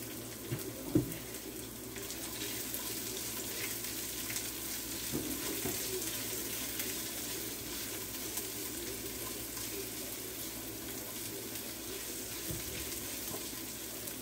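Chopped onions sizzling in hot oil in a nonstick frying pan as they are sautéed and stirred with a silicone spatula, with one sharp knock about a second in.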